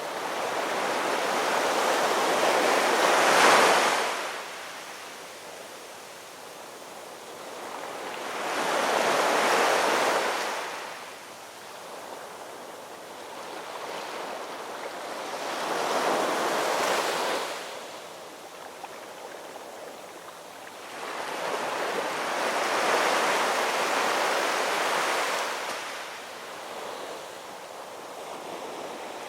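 Gentle ocean waves washing in, four surges in turn, each swelling over a few seconds and then ebbing, about every six to seven seconds.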